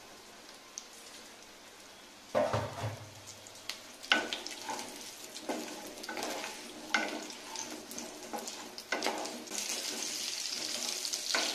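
Chunks of raw potato frying in hot oil in a kadai, turned with a wooden spatula: after a quiet first two seconds come repeated scraping stirs every second or two. The sizzle swells into a steadier, louder hiss near the end.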